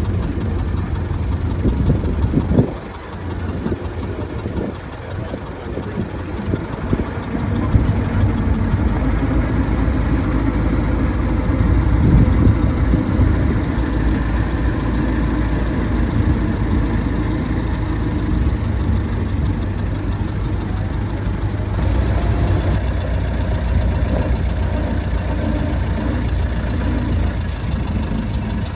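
Vehicle engine running steadily at low speed, a low rumble, heard from aboard the vehicle as it rides along.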